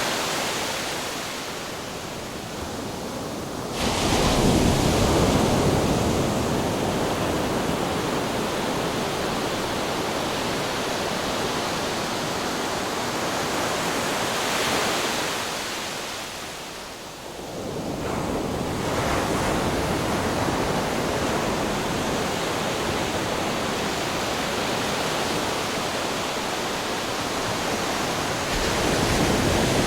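Ocean waves breaking against rocks, a continuous rush of surf that surges with each wave, the biggest about four seconds in, with a lull around halfway before the water rushes back in.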